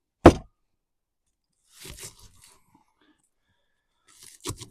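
Kitchen knife chopping through an onion onto a cutting board: one sharp knock a quarter second in, fainter cutting sounds around two seconds, and a few light taps near the end.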